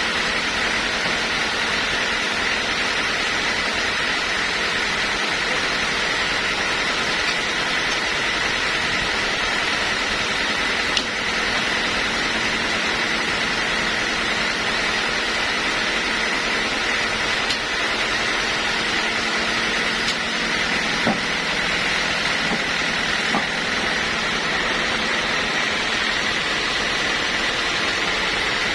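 Sawmill machinery running steadily: a continuous loud machine noise with a steady high whine.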